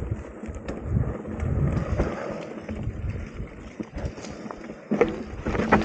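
Mountain bike ridden over a dirt trail: tyres rolling over dirt and stones with scattered clicks and knocks from the bike, and irregular gusts of wind on the microphone.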